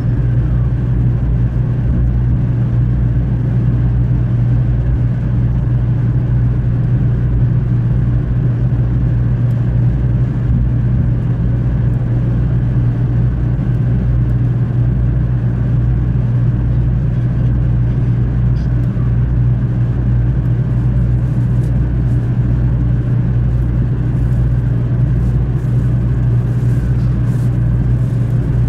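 500 series Shinkansen running at speed, heard inside the passenger cabin: a steady low hum and rumble.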